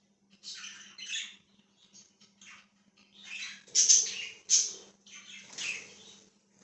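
Pet budgerigars chirping and chattering in irregular short bursts, loudest a little past the middle, over a faint steady low hum.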